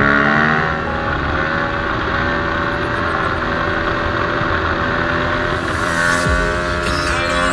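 Yamaha enduro motorcycle engine running at steady revs while the bike is ridden on its rear wheel in a wheelie, with music coming in near the end.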